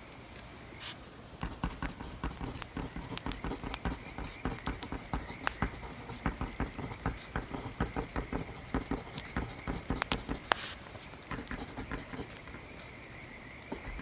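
Writing on paper at a desk, a quick irregular run of scratches and taps starting about a second in, with the occasional sharp crackle of a fire.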